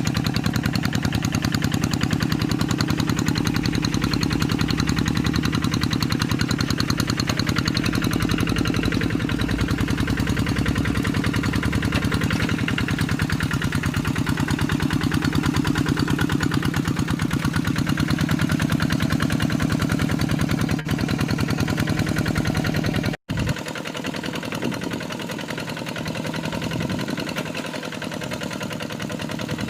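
Kubota RD85DI-2S single-cylinder diesel of a Quick G3000 hand tractor running steadily with fast, even firing beats. About three-quarters of the way through the sound drops out for an instant and comes back quieter and thinner.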